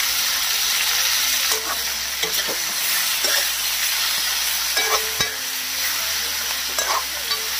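Raw chicken pieces sizzling in hot oil with onions in a steel kadai, being browned, while a metal spatula is stirred through them, scraping against the pan every second or so over the steady sizzle.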